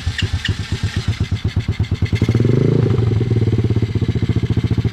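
125cc semi-automatic pit bike engine running just after starting: its even firing beat quickens over the first two seconds, gets a short rev a little over two seconds in, then settles into a steady idle.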